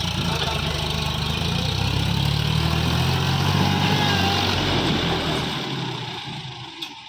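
Sonalika DI 750 RX tractor's diesel engine running steadily, growing a little louder toward the middle and fading away over the last couple of seconds.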